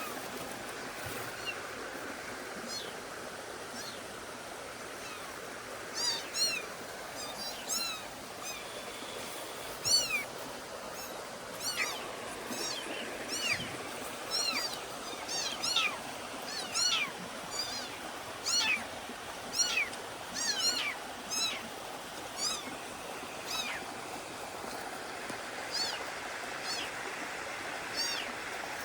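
Kittens mewing over and over: thin, high cries, about one or two a second, starting about six seconds in, over a steady rushing background.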